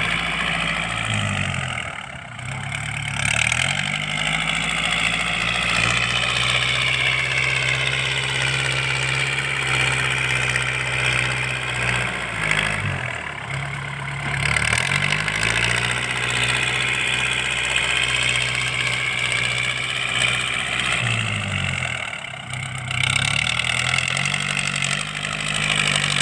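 Tractor diesel engine running through an open, straight-through aftermarket exhaust with no turbo, loud and throaty. Its speed drops and climbs back three times, holding steady in between.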